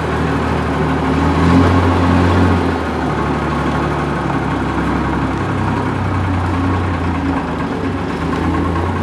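A motor vehicle's engine running steadily at low speed, its pitch dipping slightly and coming back up a few times.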